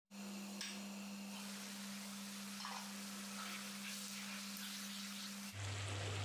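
Pork pieces sizzling as they fry in a steel kadai, with a steel spoon stirring and scraping the pan. A steady low hum runs underneath and drops to a lower pitch about five and a half seconds in.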